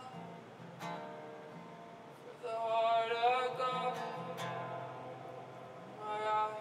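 Slow worship music: an acoustic guitar strummed sparsely, with a voice singing a wavering wordless melody over it from about two and a half seconds in.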